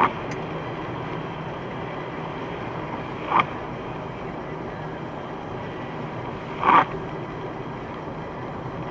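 Kia Rio windscreen wipers sweeping on an intermittent setting, each pass giving a short squeak and chatter of the blades across the glass, three times about three and a half seconds apart, over a steady car hum. The blades are chattering on the windscreen, the squeaking and rattling fault the video sets out to cure.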